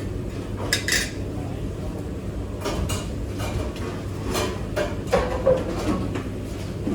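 Dishes and cutlery clinking and clattering as they are handled during washing-up, in scattered knocks and clinks, over a steady low hum.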